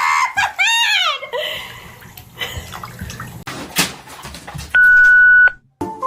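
A loud electronic beep, one steady high tone held for under a second that starts and stops sharply, near the end. It follows a rising-and-falling cry in the first second and a few seconds of splashing and knocking.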